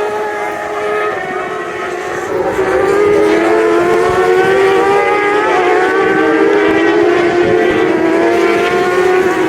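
Racing motorcycle engines running at high revs as bikes circulate on track, a high whine whose pitch slowly falls; it grows louder about two seconds in.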